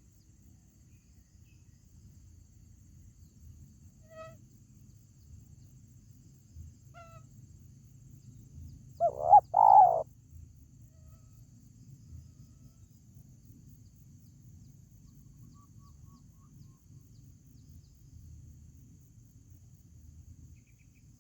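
Spotted dove (tekukur) cooing: a couple of faint short notes, then about nine seconds in one loud three-part coo lasting about a second.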